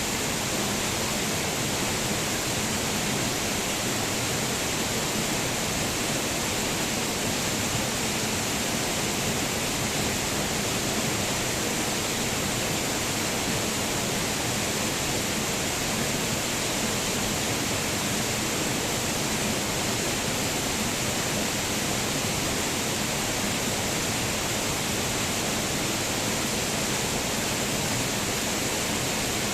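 Waterfall: a steady, unbroken rush of falling water, bright and hissy, with no change in level.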